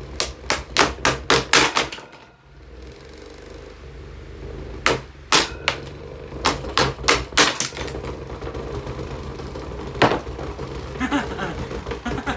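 Running electric table fan, unbalanced by broken-off blades, knocking hard as it bounces and walks: runs of rapid loud clacks, about four a second, over the motor's steady hum, with one last knock near the end.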